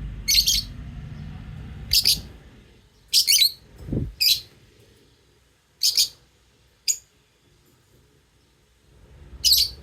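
Lovebirds giving short, shrill chirps, about seven of them at uneven intervals, with a soft low thud about four seconds in.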